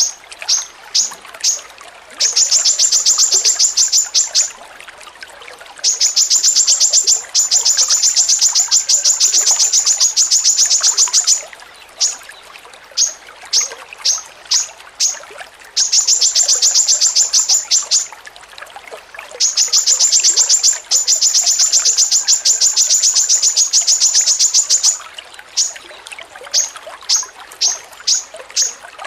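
A songbird repeating one sharp, high-pitched note over and over: a few spaced single notes, then fast rattling runs of the same note lasting several seconds, alternating back and forth.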